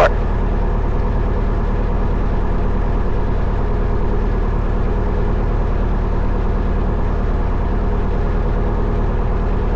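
Cessna 172 Skyhawk's four-cylinder Lycoming piston engine and propeller, heard in the cabin, running steadily at low power while holding short before takeoff.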